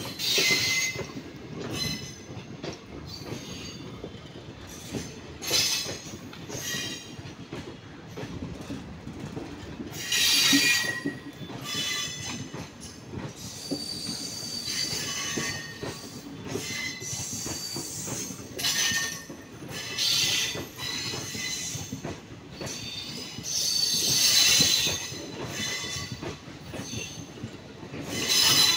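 Indian Railways passenger coaches rolling past on the rails, with a steady rumble of wheels on track. Every few seconds there are bursts of high-pitched squealing from the wheels, the loudest about ten seconds in and again a few seconds before the end.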